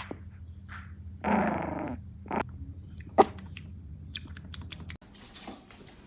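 A dog gives one short pitched vocal call, a growling whine lasting under a second, about a second in. A few sharp clicks or knocks follow, the loudest about three seconds in.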